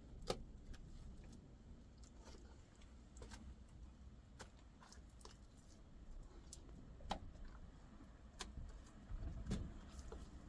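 Scattered light clicks and taps, irregular and a few seconds apart, over a low background rumble that swells briefly near the end.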